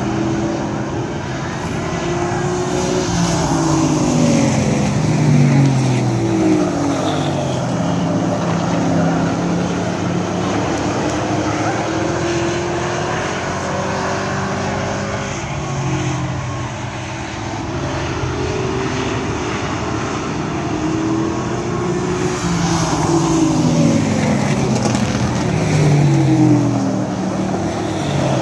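Engines of a field of racing trucks running at speed on the oval. Several engine notes fall and rise in pitch as the trucks go by and lift and accelerate through the turns, with the pack loudest twice, a few seconds in and again near the end, as it laps past.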